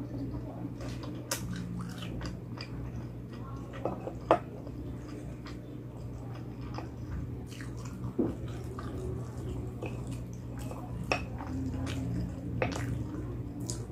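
Close-miked mukbang eating: chewing and biting through a meal of palabok noodles and fried calamares, with many small mouth clicks and a few sharper ones, the loudest about four seconds in. A steady low hum sits underneath.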